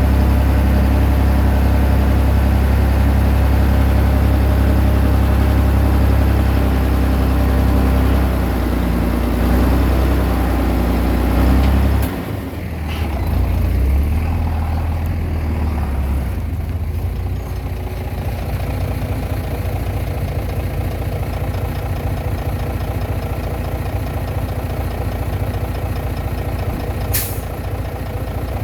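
Komatsu D20P bulldozer's diesel engine working hard, then dropping to a lighter, quieter running note about twelve seconds in. Two brief sharp high clicks, one at the drop and one near the end.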